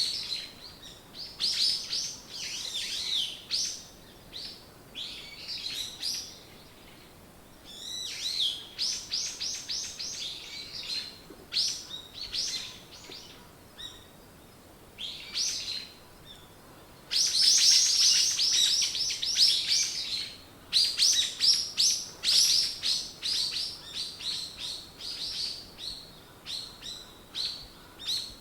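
Small songbirds chirping in bursts of quick, high, rapidly repeated notes, with short pauses between phrases; the loudest, densest run comes a little past the middle.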